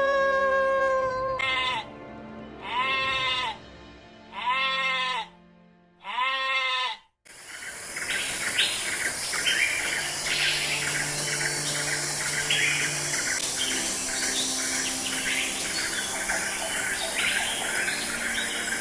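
A series of four drawn-out animal calls, each rising then falling in pitch, after the tail of a longer call. About seven seconds in, the sound changes to a steady hiss full of short bird and insect chirps, with faint background music throughout.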